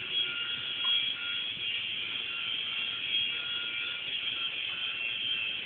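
Small toy RC helicopter's electric motor and rotor whining steadily, a high buzzing tone with a fainter lower tone that comes and goes.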